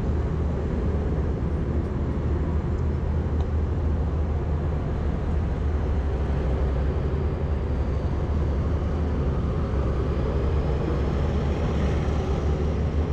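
Thai express passenger train running, a steady low rumble heard from the carriage as it rolls past a station platform.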